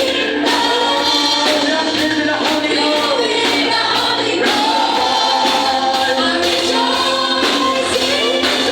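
Live worship music: a group singing a gospel song over a band with a steady beat and tambourine.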